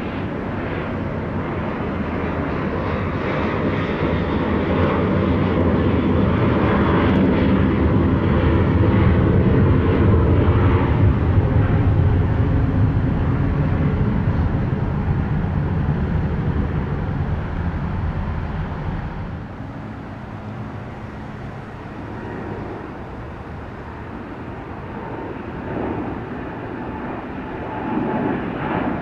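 Jet airliner departing overhead: the deep engine roar builds to a peak about ten seconds in, eases off, then drops away sharply about two-thirds of the way through, leaving a fainter rumble.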